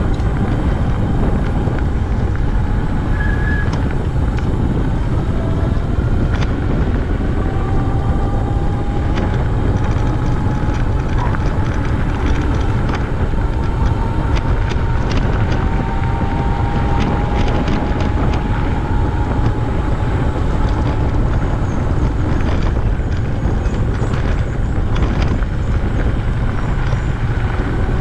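Steady wind rumble on the microphone of a camera carried on a moving bicycle, with scattered small clicks and rattles that come more often near the end.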